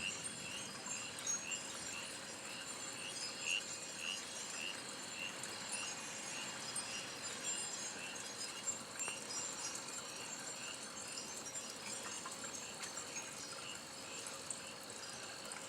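Insects trilling, with a steady high-pitched trill and a shorter chirp repeating about twice a second that fades out about halfway through.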